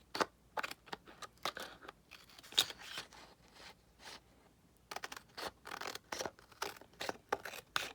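Scissors cutting paper: a run of short, irregular snips, thinning out for a couple of seconds in the middle, then coming quicker toward the end.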